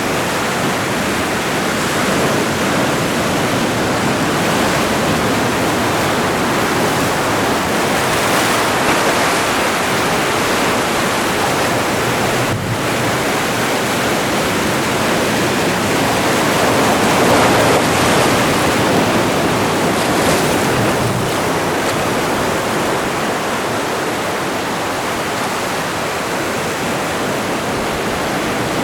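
Atlantic Ocean surf: a steady wash of breaking waves, swelling a little about two-thirds of the way through.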